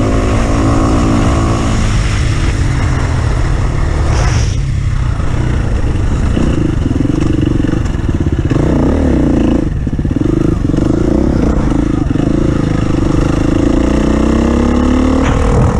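Off-road vehicle engine running hard under load, its revs rising and falling with brief throttle lifts, then revving up again near the end.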